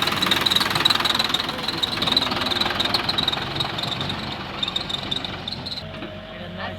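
Diesel engine of a backhoe loader or tractor running steadily with a dense mechanical noise; the high hiss drops away about six seconds in.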